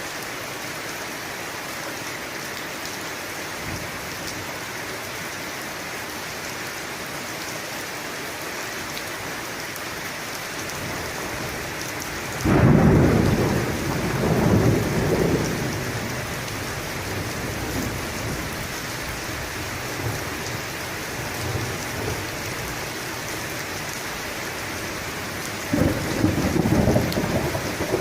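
Steady heavy rain with thunder: a sudden loud clap about halfway through that rolls on for a few seconds, and another rumble near the end.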